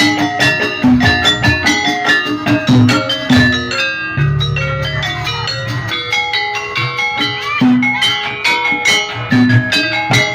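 Javanese gamelan accompaniment for Jaranan horse dance: ringing pitched metal percussion in quick interlocking notes over rhythmic drum strokes. About four seconds in, the drum strokes give way to a sustained low hum for a few seconds, then the drumming returns.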